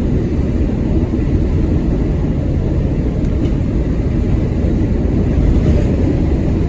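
Steady low rumble of a truck at motorway cruising speed, heard from inside the cab: engine and road noise.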